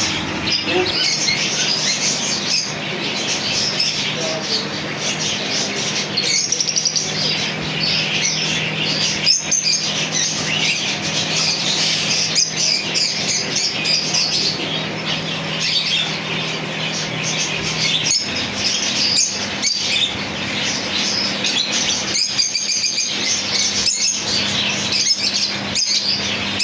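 Many caged birds chirping, tweeting and squawking together in a dense, continuous chorus, over a steady low hum.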